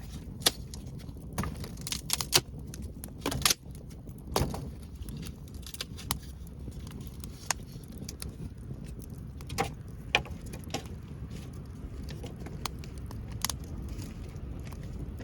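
Wood fire crackling: irregular sharp pops and snaps, several louder ones in the first few seconds, over a low steady rumble.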